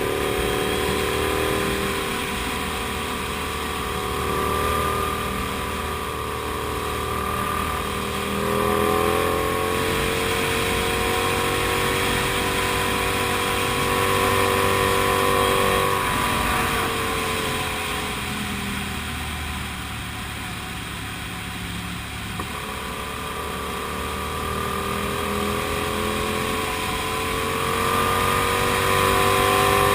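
Kasinski Comet GTR 250's V-twin engine running under way, its pitch rising and falling with throttle and gear changes, easing off for a few seconds past the middle and climbing again near the end.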